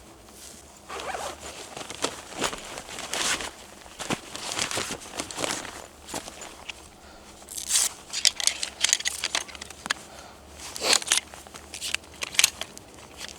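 Snow crunching and rustling in a string of irregular, uneven crunches, some sharp and close together.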